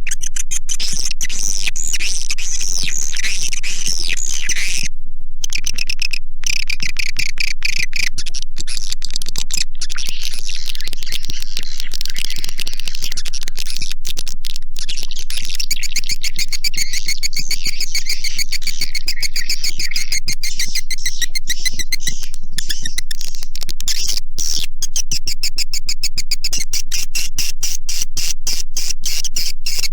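Swiftlets (walet) twittering in a dense, continuous stream of rapid high chirps and clicks, with a brief break about five seconds in. It is a swiftlet-house lure recording of the kind played to draw the birds in to roost and nest.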